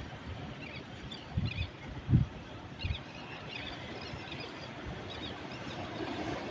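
Steady wash of sea surf with small birds giving short high chirps, and a few low thumps, the loudest about two seconds in.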